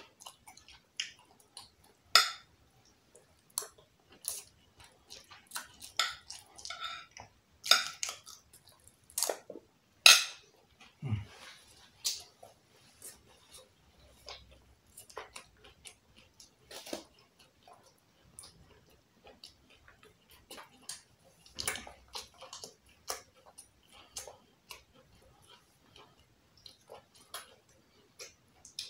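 Close-miked eating sounds: chewing and mouth smacks from mouthfuls of jollof rice, with scattered sharp clicks and taps, the loudest about two, eight, ten and twenty-two seconds in.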